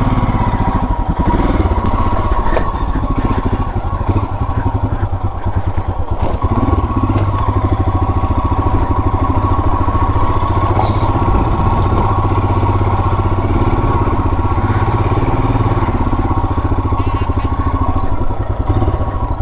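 Royal Enfield Himalayan's single-cylinder engine running as the motorcycle is ridden slowly over rough dirt and stone, a steady rapid exhaust pulse with no let-up.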